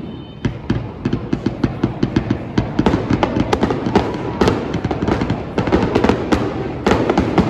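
Aerial fireworks bursting in rapid succession: many sharp bangs and crackles a second over deep booming thumps, getting denser after the first few seconds.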